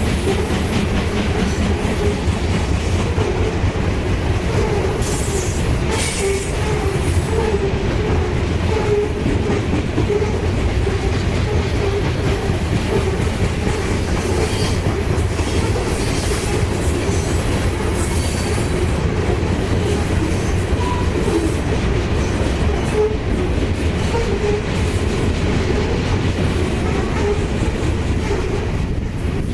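Freight train cars rolling past: a loud, steady rumble and rattle of steel wheels on the rails.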